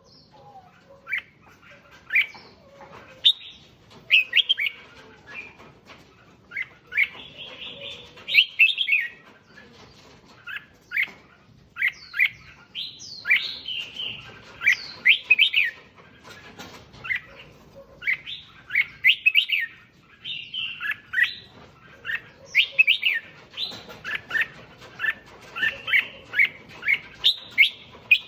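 Red-whiskered bulbul singing: short, quick phrases of bright whistled and chirping notes, one after another every second or so.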